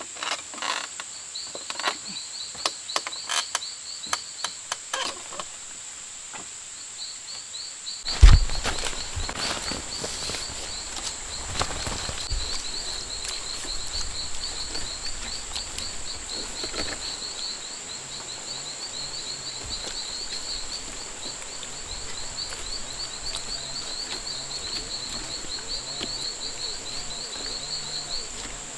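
Jungle ambience: a steady high insect drone with a rapid chirping trill over it. A string of sharp knocks comes in the first few seconds, and a loud thud about eight seconds in is followed by a low rumble lasting a few seconds.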